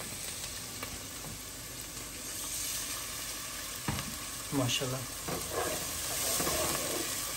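Masala paste sizzling in hot oil in a pot, a little louder from about two seconds in. A wooden spoon stirs it, scraping and knocking against the pot around four seconds in.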